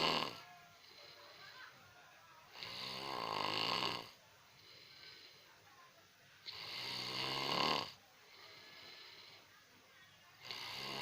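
A person snoring in a steady rhythm: a loud, rasping snore about every four seconds, each lasting just over a second, with a fainter breath between snores.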